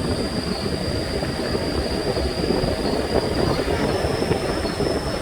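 4x4 truck driving along a forest road, heard from aboard: a steady rattling rumble of engine and body with no let-up.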